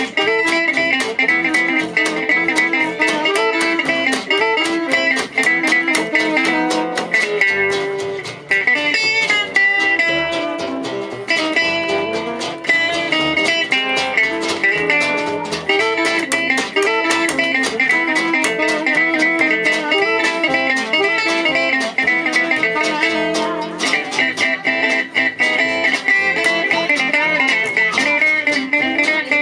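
Live jazz manouche (gypsy jazz) band playing, led by plucked guitars picking and strumming.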